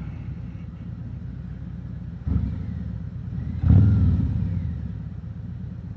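Harley-Davidson Road King Special's V-twin engine running while riding, a steady low rumble with two sudden louder surges, one about two seconds in and a stronger one near four seconds that fades away.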